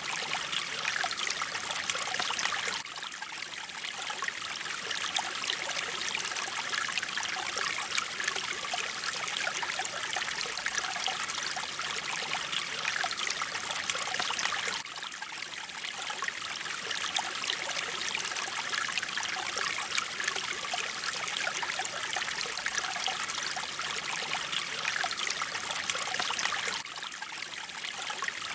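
Mountain stream flowing and trickling over rocks: a steady babble of small splashes, brighter in the highs, with a slight dip in level every twelve seconds or so.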